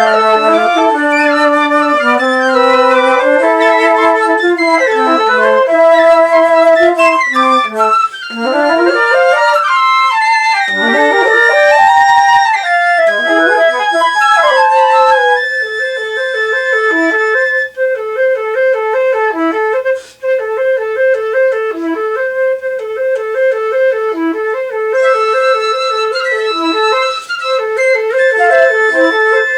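Several overdubbed flute parts, an alto flute among them, playing together in layered chords. About a third of the way in the parts slide up and down in pitch glides; from about halfway a low part repeats a quick two-note figure under a held high note.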